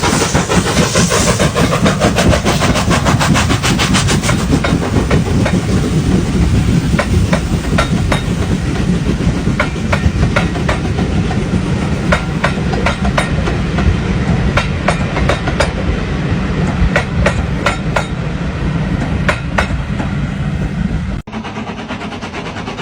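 Train rolling past, its wheels clacking over the rail joints over a steady heavy rumble. The clicks come in a quick dense run at first, then thin out to a slower, uneven clicking. The sound cuts off suddenly near the end.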